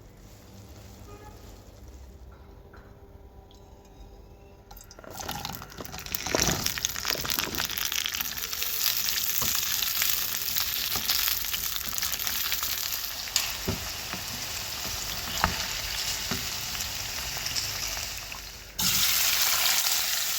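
Vegetables frying in hot oil in a pan, with sizzling and the clicks and scrapes of a spatula stirring them. For the first five seconds there are only a few faint clicks; then the sizzling starts, and it jumps suddenly louder near the end.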